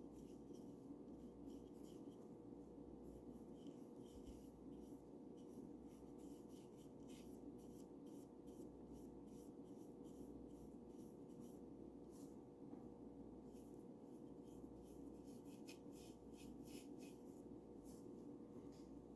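Faint, soft strokes of a paintbrush brushing paint onto a bird house, over a steady low hum. The strokes come quicker and more often near the end.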